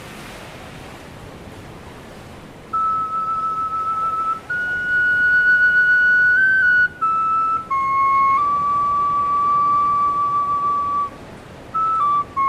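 Background music: a slow, flute-like solo melody of long held notes entering about three seconds in, after a soft quiet start.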